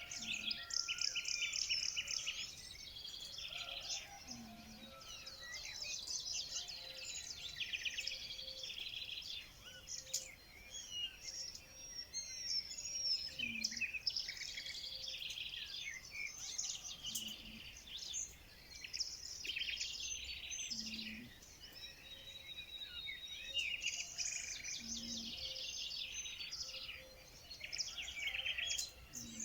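Several songbirds singing and chirping at once in a dense, continuous chorus of overlapping trills. A short low note recurs every four seconds or so beneath it.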